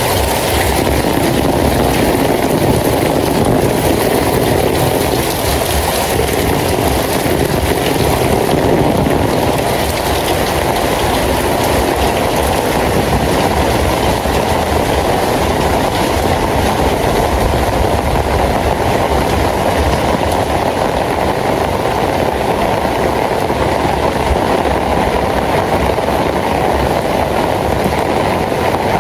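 Steady, heavy rainfall, a loud even hiss and patter that holds constant throughout.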